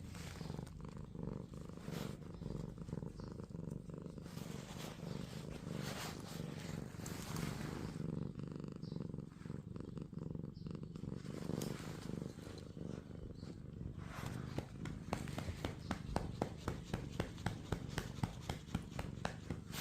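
Domestic cat purring steadily. Past the middle, a hand starts patting its rump in a quick, even rhythm of about three soft pats a second.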